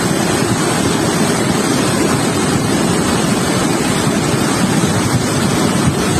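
Loud, steady rush of floodwater pouring through a flooded street.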